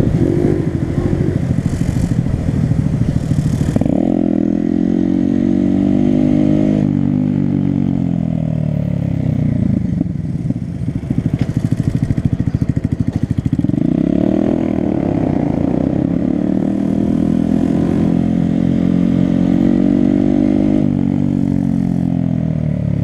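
Honda Grom's small single-cylinder engine riding at low speed, pulling away twice with the pitch rising, then easing off as it slowly falls.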